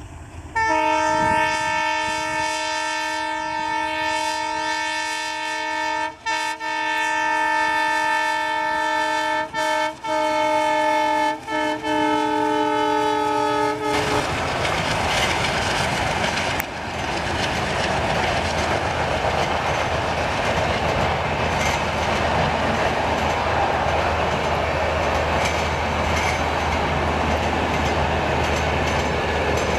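Indian Railways WDM3A diesel locomotive sounding a long, steady horn with a few brief breaks for about thirteen seconds. The horn stops abruptly as the locomotive passes. After that, the coaches rush past with a steady clatter of wheels on rail.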